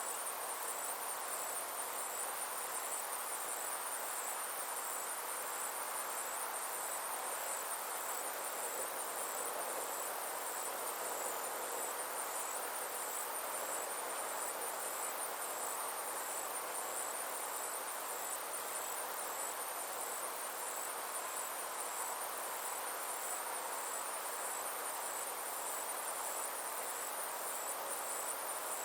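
Insects chirping in a steady, high-pitched trill made of fast, evenly spaced pulses, over a constant soft hiss.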